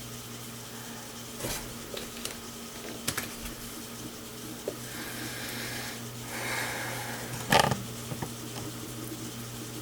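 Scattered knocks and a brief scrape of a desktop computer's metal case and side cover being handled and fitted back on, the loudest knock near the end. A steady low hum runs underneath.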